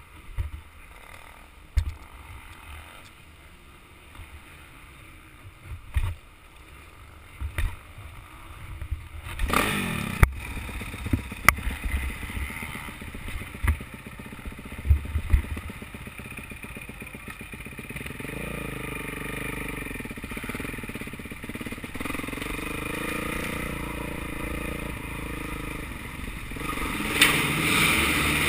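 Motocross motorcycle engine. For the first several seconds there are only scattered low knocks, then the engine comes in suddenly about a third of the way through. It runs with its pitch rising and falling, and revs louder near the end.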